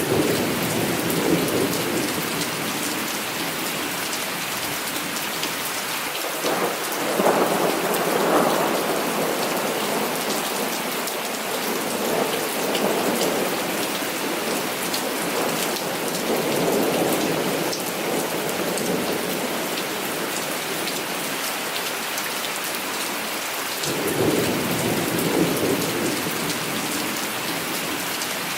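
Heavy rain pouring steadily, with thunder rolling in again and again: a rumble right at the start, a longer, louder one from about six seconds in, softer rolls after that, and another rumble a few seconds before the end.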